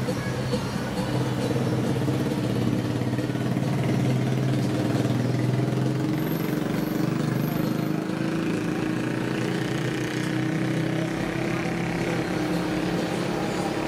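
A motor vehicle engine running steadily close by, over general street noise. Its hum creeps slowly up in pitch in the second half.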